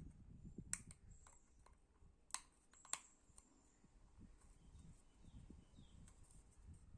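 Faint scattered clicks and taps over a low rumble, with three sharper clicks: one under a second in, then two close together about two and a half and three seconds in.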